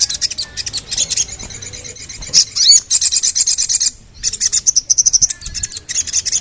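A spiderhunter (sogok ontong) singing: fast runs of high, sharp chirping notes, in bursts of about a second broken by short pauses.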